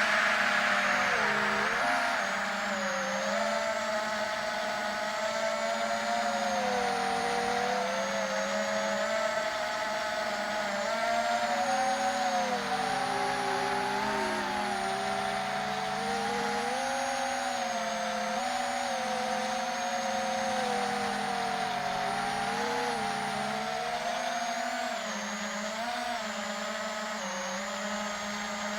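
4-inch FPV quadcopter's motors and propellers whining, the pitch wandering up and down as the throttle changes.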